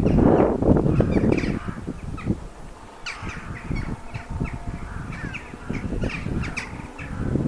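A flock of birds calling, many short calls overlapping one another. A low rumble fills the first second or so and comes back near the end.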